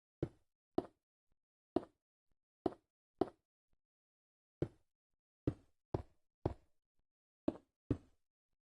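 A series of about eleven sharp knocks at irregular intervals, each dying away quickly, with near silence in between.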